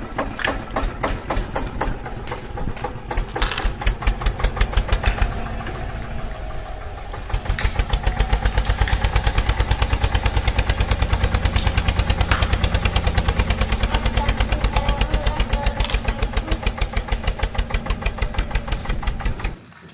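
An engine idling with a rapid, even thumping beat. It gets louder and heavier about seven seconds in, and the sound briefly cuts out just before the end.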